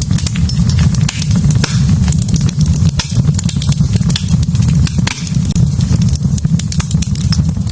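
Wood fire burning in a fireplace, crackling with dense, irregular sharp pops over a steady low rumble.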